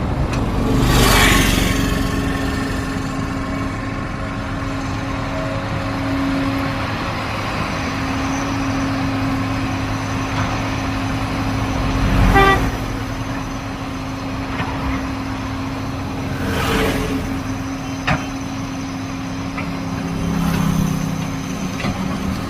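A vehicle engine running steadily with a constant hum, interrupted by several brief louder swells.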